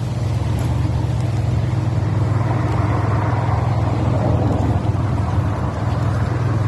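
A motor running steadily: a low hum with a rushing noise above it.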